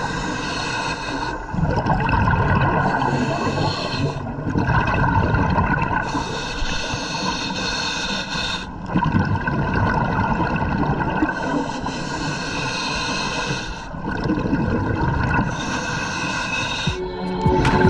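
Scuba diver breathing through a regulator underwater: repeated breaths a few seconds apart, each a hissing draw of air followed by a rush of bubbling exhaust.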